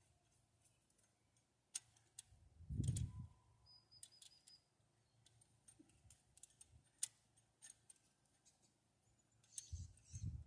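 Faint scattered clicks and light taps, with a low thud about three seconds in and another near the end.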